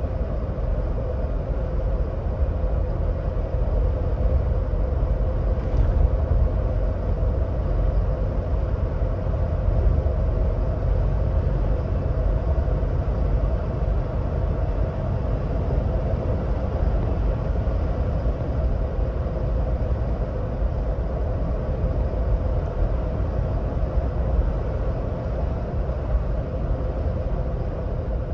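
2026 Ford Bronco Badlands driving at highway speed: a steady low rumble of road and tyre noise with a constant hum running under it.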